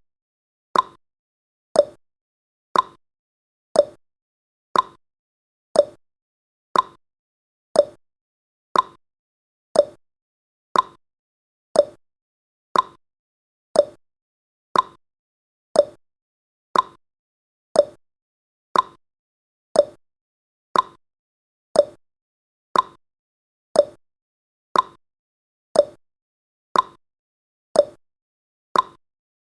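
Countdown timer's ticking sound effect: short, identical ticks, one every second, with silence between.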